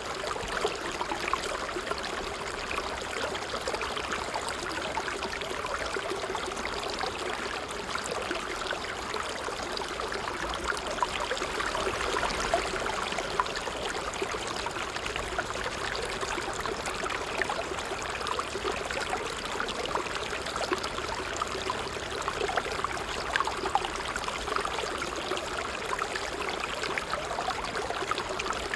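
Trickling water, a small stream running over stones in a steady, continuous babble of many small splashes.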